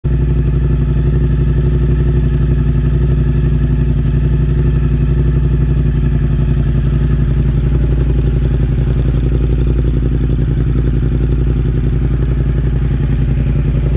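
Suzuki GSX-8S's 776 cc parallel-twin engine idling steadily through a Yoshimura AT2 aftermarket exhaust.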